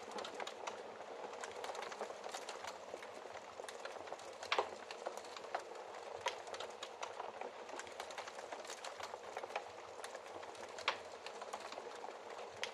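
Fire crackling in a fireplace: a steady bed of small crackles with a louder pop about four and a half seconds in and another near the end.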